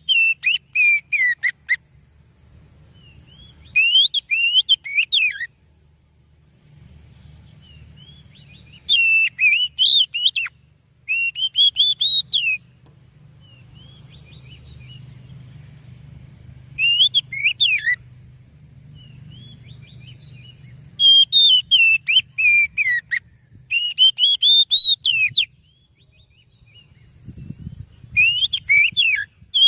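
Oriental magpie-robin (kacer) singing: loud whistled phrases of one to two seconds each, sliding and falling in pitch, repeated after short pauses. A faint low hum runs underneath.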